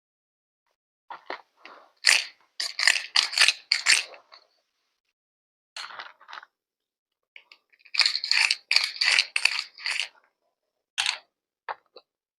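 Several clusters of crisp crunching and scraping handling sounds, each a second or two long, separated by silent pauses.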